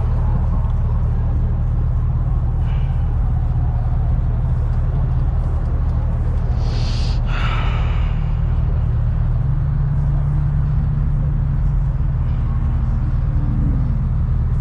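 Car engine idling steadily with a low, even hum, and a short hiss about seven seconds in.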